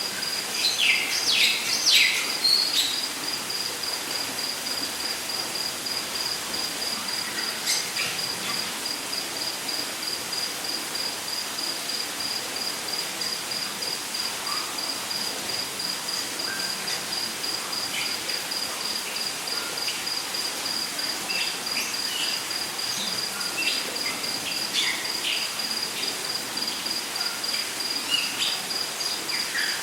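Rainforest ambience: an insect, cricket-like, trilling in fast, even pulses on one high note, over a steady hiss. Bird calls cut in with a cluster of quick falling notes about a second in and scattered short chirps in the second half.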